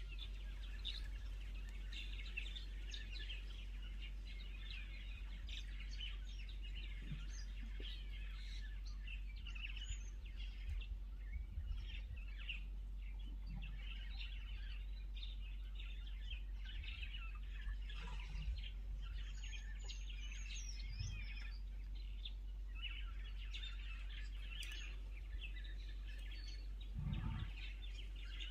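Birds chirping and calling continually, over a steady low hum. A few soft low thuds come through, the strongest near the end.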